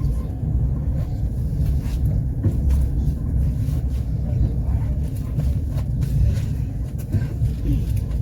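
Low, steady rumble of a passenger train running on the line, heard from on board, with a few faint scattered clicks of the wheels.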